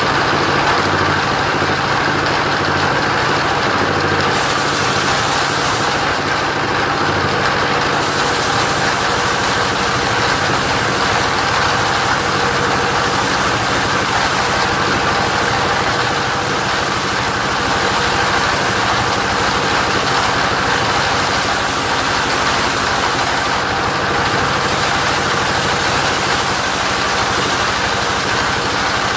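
Engine of a mobile sawmill used for sawing coconut wood, running steadily and loudly, with a brighter hiss that sets in about four seconds in.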